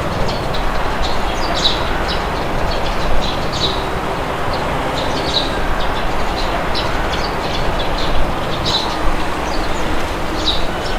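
Steady wind noise with small birds chirping over it in short, scattered calls.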